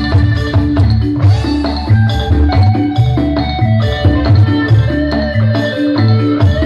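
Live band music playing an instrumental passage, with a steady repeating bass beat under a sustained melodic lead.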